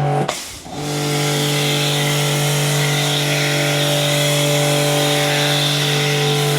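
V-TUF V7 brushless electric pressure washer running and spraying, a steady motor-and-pump hum under the hiss of the spray. It cuts out briefly as the trigger is released and starts again just before a second in, then runs steadily.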